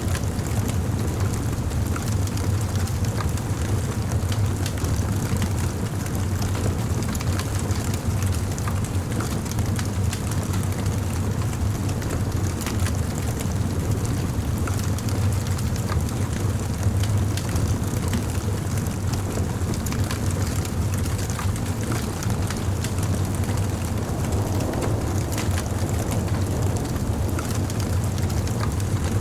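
Bonfire burning: a steady low rush of flames with frequent small crackles and pops scattered throughout.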